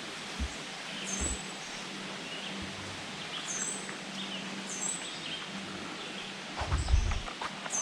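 A bird calling a few times, short high chirps a second or more apart, over a faint even outdoor hiss. A few low bumps and rustles come near the end.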